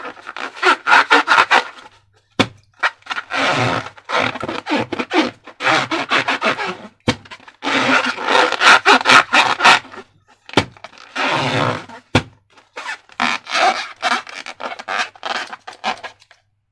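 Hands working slime and rubber balloons: crackly rubbing and squishing in bursts of one to two seconds with short pauses, stopping near the end.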